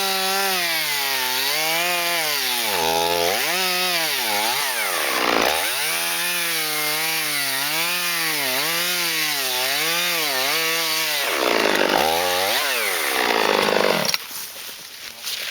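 Chainsaw running at high revs and cutting wood. Its pitch dips and recovers over and over as the chain bogs under load. It stops near the end.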